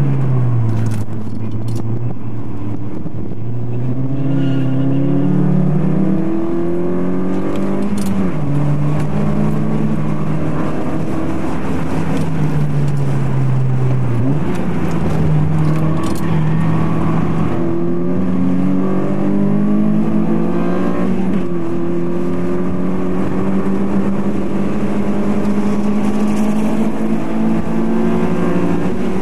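Turbocharged car engine heard from inside the cabin while lapping a race track. The revs climb through the gears and sag under braking, with sharp pitch changes at the gear shifts about 8, 14 and 21 seconds in.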